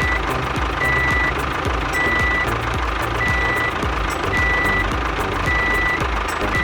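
Truck reversing alarm beeping evenly, about one beep a second, over background music with a steady beat.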